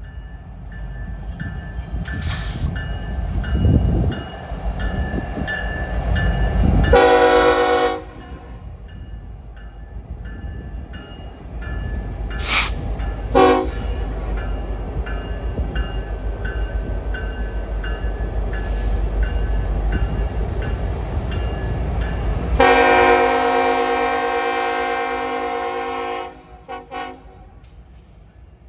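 BNSF diesel locomotive passing with a heavy rumble, sounding its air horn: a short blast about seven seconds in and a long blast of about three and a half seconds near the end, after which the rumble fades.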